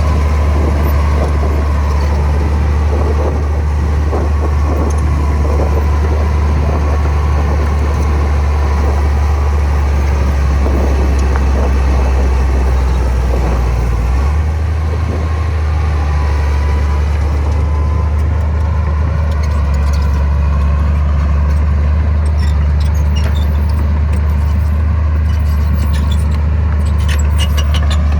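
Komatsu bulldozer's diesel engine running steadily under work, with a deep low hum that shifts slightly about halfway through and light metallic clinking that grows near the end.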